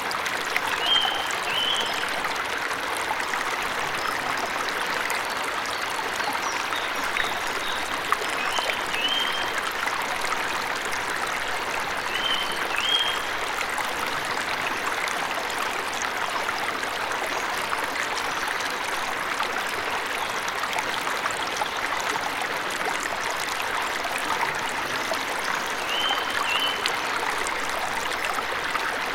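Waterfall rushing steadily, with a bird giving a short two-note chirp four times over it.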